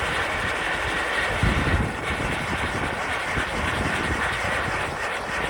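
Sky Bacon COBRA spinning fountain firework burning with a steady spraying hiss as it spins, with a gust of wind buffeting the microphone about a second and a half in.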